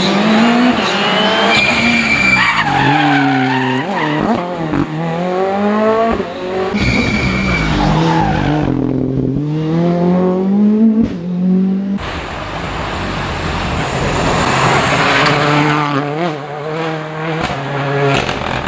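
Rally cars at full speed on a special stage: engines revving hard, rising and dropping with quick gear changes, with brief tyre squeal. The sound cuts abruptly to a different car about twelve seconds in.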